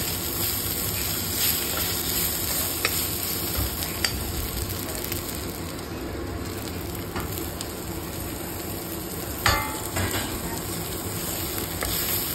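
Onions, green chillies and ginger-garlic paste sizzling in hot oil in a kadai while a steel spoon stirs and scrapes through them, with a few sharp clinks of the spoon. A louder clatter comes about nine and a half seconds in.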